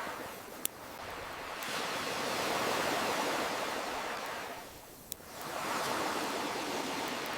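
Ocean waves washing in and drawing back, swelling then falling away and building again. Over them a wood campfire pops sharply twice, once near the start and once about five seconds in.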